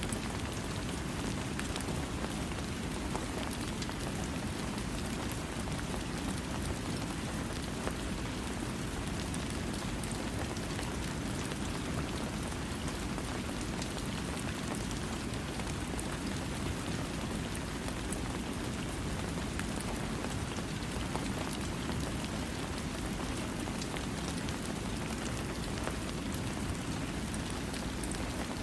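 Steady rain falling without thunder, a constant even hiss of rain on surfaces with a heavy low rumble and scattered drop ticks.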